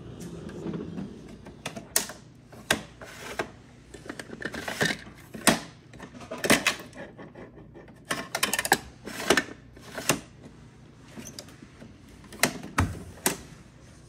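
Toy garbage trucks being handled: irregular sharp clicks and clattering knocks, some in quick clusters.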